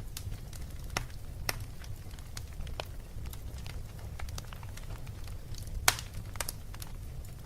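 Fireplace fire crackling, with irregular sharp snaps and pops, the loudest about six seconds in, over a steady low rumble.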